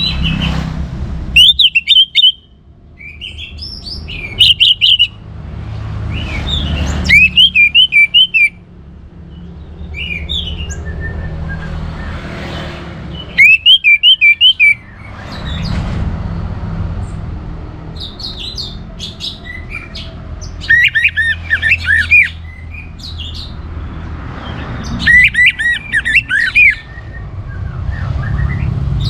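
Orange-headed thrush singing in loud, short phrases of rapid, varied notes, about eight phrases a few seconds apart, over a steady low rumble.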